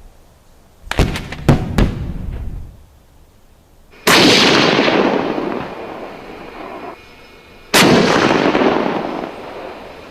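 Gunshot sound effects: a quick burst of about four sharp shots about a second in, then two heavy single shots, one about four seconds in and one near eight seconds, each trailing off in a long echoing rumble.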